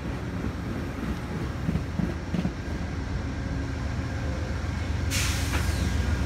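Amtrak passenger train rolling past below, a steady low rumble that grows louder. A sudden hiss comes in about five seconds in.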